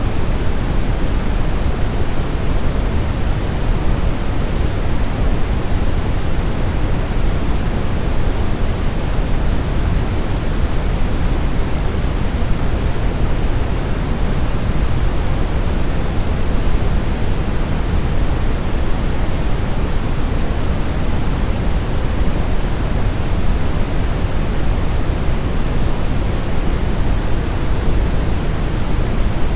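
Synthetic brown noise: a steady, even hiss weighted toward the low end, with a deep rumble and little top.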